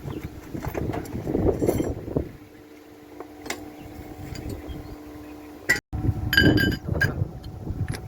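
Metal parts and hand tools clinking and knocking while a water-pump engine is being reassembled, over a steady low hum. There are a few short ringing metallic clinks, the clearest a little over six seconds in.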